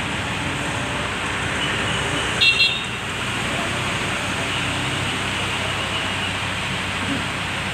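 Steady road traffic with vehicle engines running, and a vehicle horn sounding two quick toots about two and a half seconds in.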